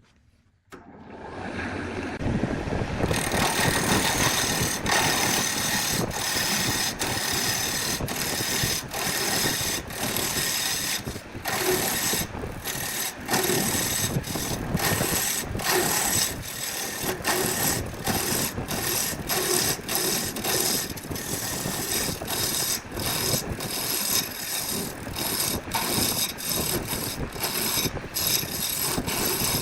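Woodworking machinery running with a steady high whine, starting about a second in and broken by many brief gaps.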